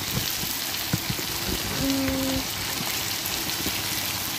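Chopped taro stolons, onion and jackfruit seeds sizzling steadily as they fry in oil in a kadai, with a few light clicks.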